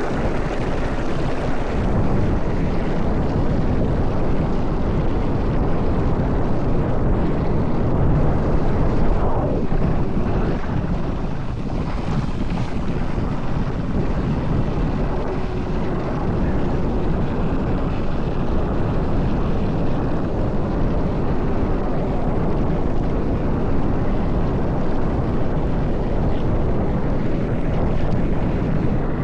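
Mountain bike descending a rough dirt trail at speed: continuous tyre noise with irregular rattling and chatter over the rough ground, and wind buffeting the microphone.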